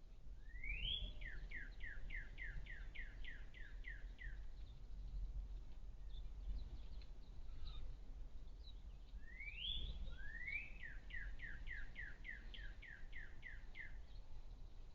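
A songbird sings two songs. Each opens with a rising whistle and runs into a series of about a dozen short falling notes, roughly four a second, with the second song starting about nine seconds after the first. A faint low rumble lies underneath.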